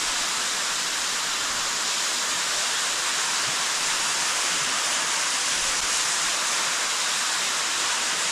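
Steady rushing of a waterfall of storm runoff pouring into the cave pit.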